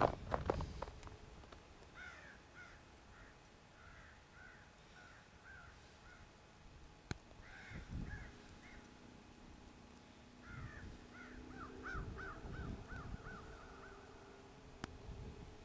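Birds calling in runs of short, repeated arched calls; the last run quickens to about five calls a second. A burst of low rumble at the very start.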